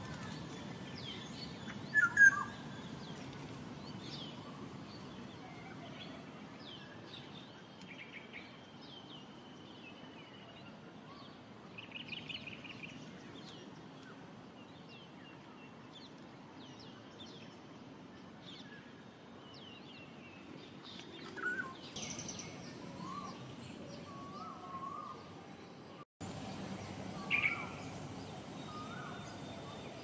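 Outdoor ambience with several small birds chirping and calling in short scattered notes, two louder chirps about two seconds in, over a steady high-pitched hiss.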